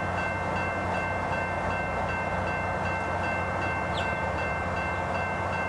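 Steady rumble and rolling noise of a diesel-hauled train with a low hum, plus several thin, steady high-pitched tones held throughout. A brief short chirp sounds about four seconds in.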